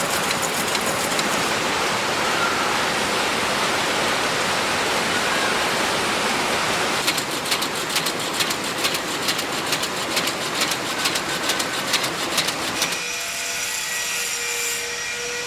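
Textile factory machines running: a dense steady clatter, joined about seven seconds in by rapid clicking. Near the end it cuts to a quieter machine with a faint steady whine.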